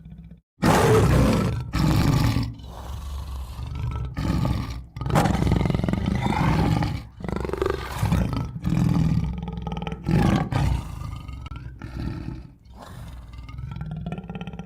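Tiger roaring and growling in a run of loud, separate roars, starting suddenly about half a second in and going on for about eleven seconds.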